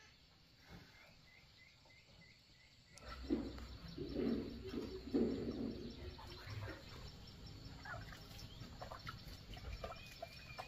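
Outdoor rural ambience with birds chirping. About three seconds in the background noise jumps up, and a few louder low calls or knocks follow.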